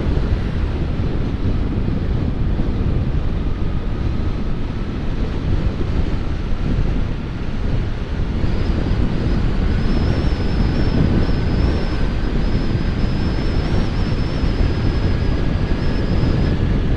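Strong wind noise buffeting a microphone inside a motorcycle helmet at riding speed, a dense steady rumble, with a faint thin high whine above it from about halfway through. The rider puts the wind noise down to an air leak on the right-hand side of the helmet.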